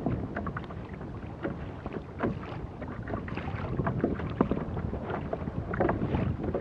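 Small waves lapping and splashing irregularly against a kayak's hull, with wind rushing over the microphone.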